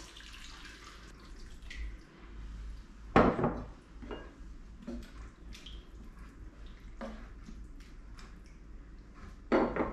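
Water being poured from a measuring cup into a deep cast iron pot of sautéed vegetables, with splashing and light clinks, and one sharper knock about three seconds in.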